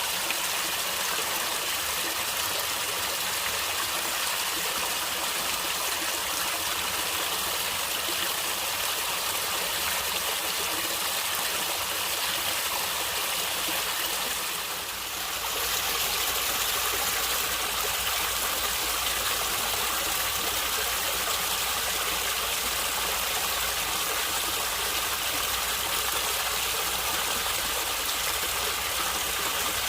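Water of a natural stream flowing steadily, with a rushing, gurgling sound. About halfway through it briefly dips in level, then carries on with a deeper low rumble added.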